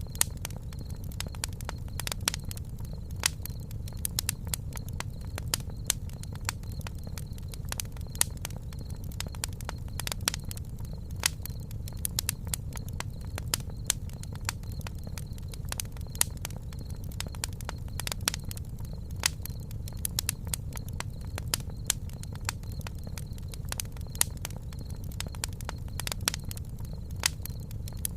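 Wood campfire burning, with sharp irregular crackles and pops over a steady low rumble of the flames.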